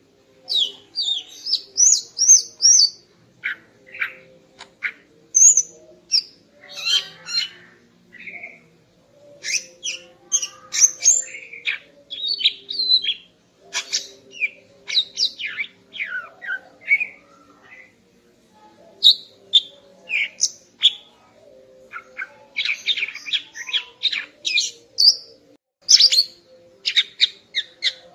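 Female cucak ijo (green leafbird) calling: quick runs of short, sharp chirps and downward-sweeping whistles in bursts, with brief pauses between the runs.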